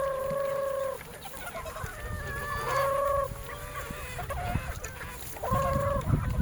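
Gamecock roosters crowing: three long held crows, the first right at the start, one about halfway through and one near the end, with softer clucking between. A low rumbling noise comes up near the end.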